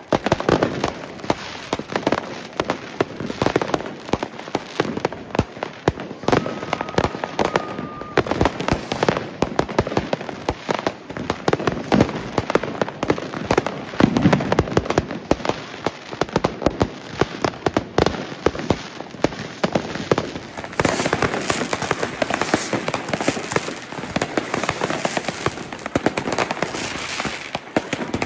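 New Year's Eve fireworks: a continuous, dense barrage of overlapping firecracker and rocket bangs. A short steady whistle comes about six seconds in, and a thicker crackling hiss fills the last seven seconds.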